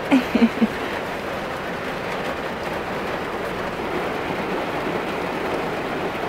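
Heavy rain pouring down on a campervan, heard from inside as a steady dense patter on the roof and windows. Three short pitched squeaks sound over it in the first second.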